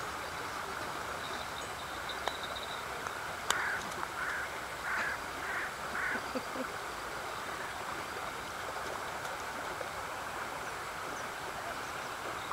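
Steady outdoor background hiss, with a bird giving about five short, rough calls in quick succession a few seconds in.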